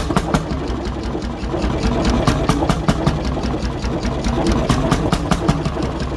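1957 McDonald type YD single-cylinder two-stroke hot bulb engine running faster after being revved, a sharp knock with each firing stroke several times a second. The owner puts the speed down to a governor set too loose.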